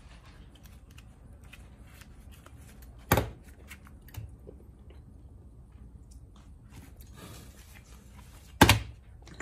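Disassembled car starter-motor parts being handled on a bench: faint clicks and scrapes, with two sharp knocks as parts are set down, about three seconds in and near the end.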